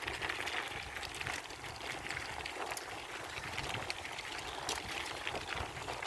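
Steady rushing noise of riding a bicycle, picked up on a handheld phone, with faint crackles running through it.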